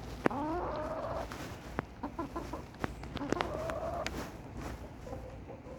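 Chickens clucking and calling in drawn-out calls that slide up and down in pitch, with a few sharp clicks in between.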